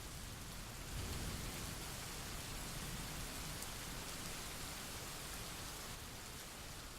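Quiet, steady rain falling, an even hiss with no music, tapering off near the end.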